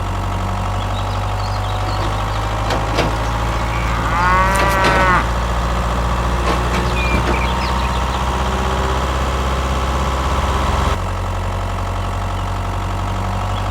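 Steady low engine drone, like a tractor running, with one short high-pitched call about four seconds in.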